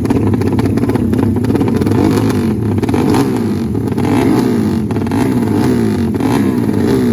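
Tuned drag-race motorcycle engines being revved, the throttle blipped up and down again and again, about once a second.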